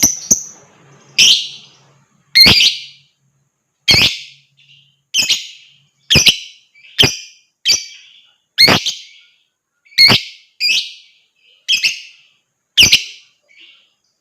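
Lovebird giving about a dozen loud, sharp, high-pitched single calls, roughly one a second with short gaps between, not a continuous trill.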